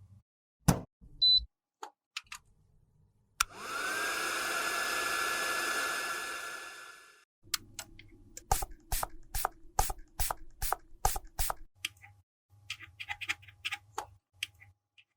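A small electric motor switches on, spins up to a steady whine over a whir, runs for about four seconds and cuts off. A quick run of sharp taps follows, then light scattered clicks.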